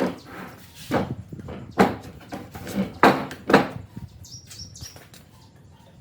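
A series of about five loud, irregular knocks and thuds, as of wooden pieces being struck or set down in a woodworking shop. They are followed a little over four seconds in by three or four short high chirps in quick succession.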